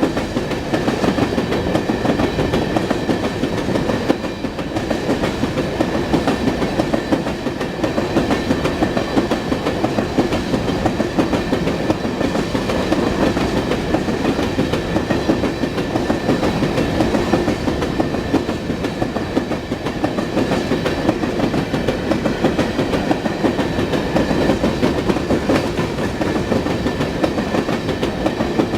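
Freight train cars rolling past, their wheels clicking rapidly over the rail joints with a steady rumble, and a faint steady high squeal above it.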